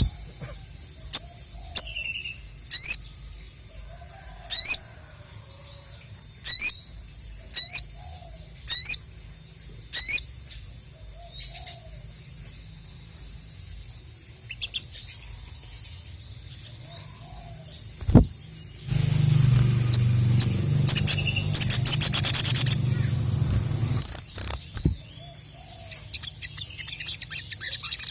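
A sogok ontong (sogon) gives sharp, high, rising chirps, one every second or two. After a quieter stretch comes a loud burst of rapid chattering over a low rustle, and more chatter starts near the end.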